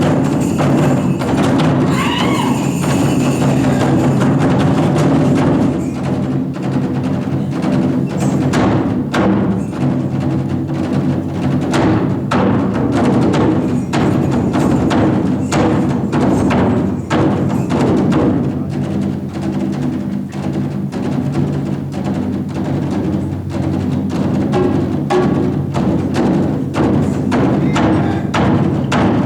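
A Japanese taiko drum ensemble playing a fast, dense run of drum strikes over a sustained low tone.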